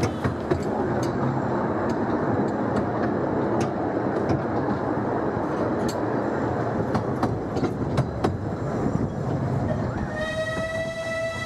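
Open carriage of a 15-inch gauge miniature railway train rolling slowly: a steady rumble with irregular clicks of the wheels over rail joints and points. Near the end, the locomotive's whistle sounds one long steady note.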